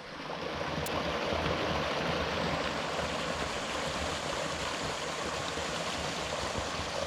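Creek water flowing steadily over rocks.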